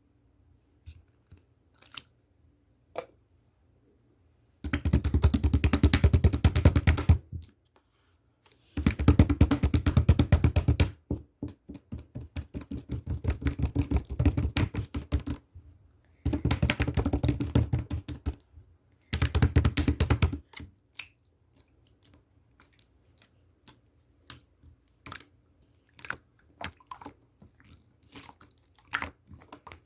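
Slime being squeezed and pressed by hand, giving dense crackling and popping from trapped air in several stretches of two to four seconds, then scattered single clicks and pops toward the end.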